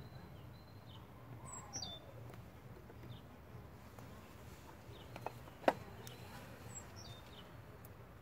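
Outdoor ambience with birds chirping now and then, over a faint low hum, and a single sharp click a little past the middle.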